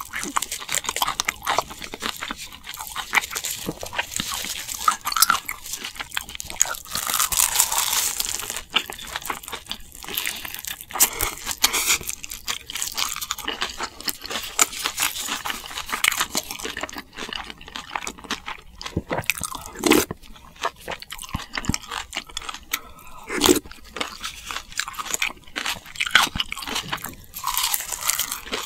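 Close-miked eating: food being bitten, crunched and chewed in a continuous run of wet clicks and crackles, with a few sharper louder clicks about twenty seconds in.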